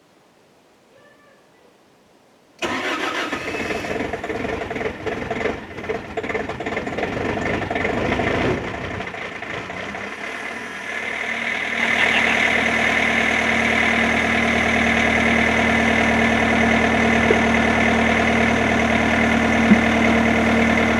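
Bobcat S530 skid steer's diesel engine, cold-started: it fires suddenly about two and a half seconds in, runs unevenly for several seconds with a dip near the ten-second mark, then settles into a steady run with a strong hum. It keeps running now that its low hydraulic fluid, which had tripped the shut-off sensor, has been topped up.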